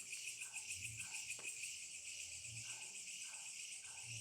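Chorus of crickets and other night insects: a steady, fast-pulsing high chirring, with a few faint short lower calls here and there.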